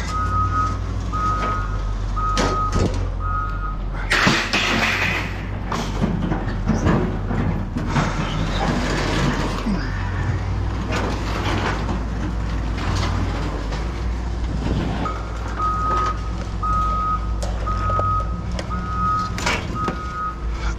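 A vehicle's reversing alarm beeping evenly, about one and a half beeps a second, over a steady engine drone; the beeping stops after about three seconds and starts again after about fifteen. A loud rushing burst of noise comes about four seconds in, followed by a few seconds of clatter.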